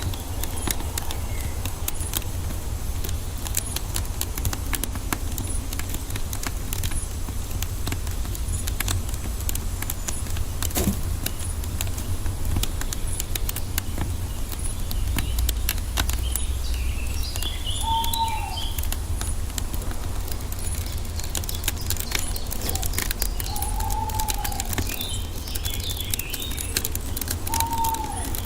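Wood fire crackling with frequent small pops over a low steady rumble. Bird calls over it: a short arched call three times in the second half, and higher twittering chirps.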